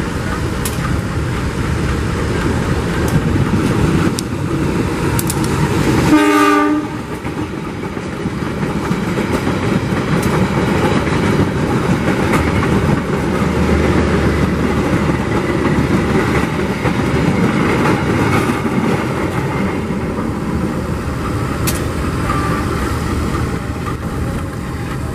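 A passenger train running through the station without stopping: diesel locomotive and coaches rolling past, wheels clattering over the rail joints. A short locomotive horn blast sounds about six seconds in.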